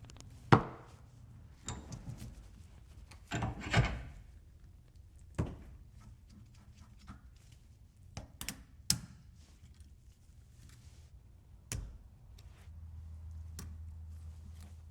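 Scattered knocks, clunks and clicks at irregular times, as of tools and parts being handled, with the loudest knock near the start and a cluster of rubbing knocks a few seconds in. A low steady hum starts near the end.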